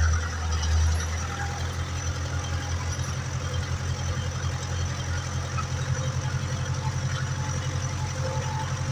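Ursus 385 tractor's diesel engine running steadily with a low, even throb, a little louder for the first second.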